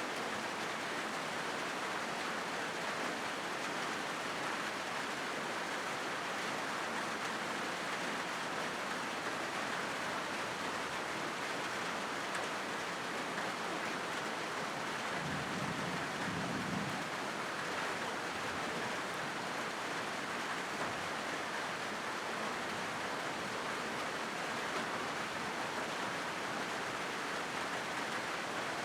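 Steady rain falling on a corrugated zinc roof: a dense, even hiss that does not let up, with a brief low rumble about halfway through.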